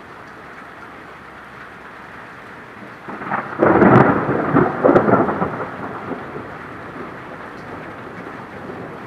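Steady rain, then a thunderclap about three seconds in: a crackling peal that is loudest for about two seconds and then rolls away into the rain.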